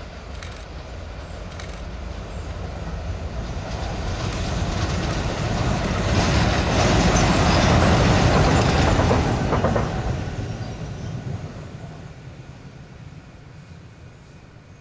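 Two WDG3A ALCO diesel locomotives running light past on the track. The sound builds to a peak about seven to nine seconds in and then fades away, with a few clicks of wheels over rail joints as they go by.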